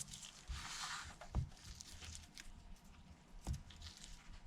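Faint bench handling during a phone repair: a short soft rustle, then two light knocks about two seconds apart, with a few faint ticks.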